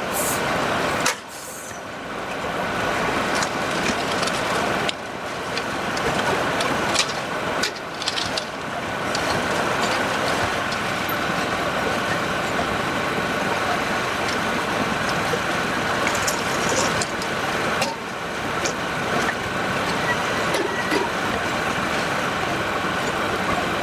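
Heavy machinery running steadily, a loud, dense engine-and-machine noise, with several abrupt changes where one stretch of sound cuts to the next.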